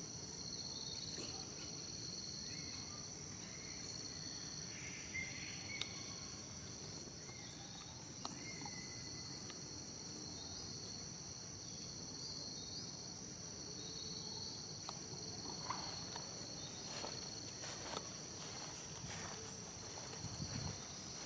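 Steady outdoor insect chorus, a high-pitched drone of several overlapping pitches, with scattered clicks and rustles and a few short chirps over it.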